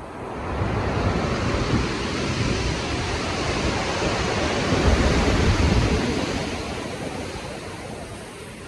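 Heavy ocean surf: a wave swells up, breaks with a deep low rush about five seconds in, and washes back out, with wind over the water.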